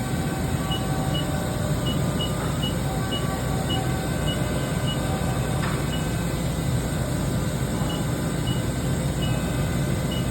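Steady mechanical running noise from machine-shop machinery around a powered-up CNC lathe: a low hum and rumble with no change, and short faint high tones blipping on and off at irregular spacing.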